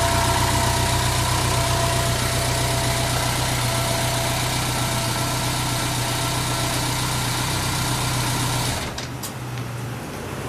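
BMW K1100RS four-cylinder engine idling steadily, then stopping about nine seconds in, with a couple of faint clicks after it. The seller lists the engine as free of abnormal noise.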